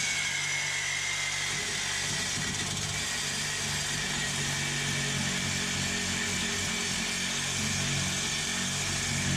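Reciprocating saw (Sawzall) with a metal-cutting blade running steadily while cutting through a car's steel exhaust pipe.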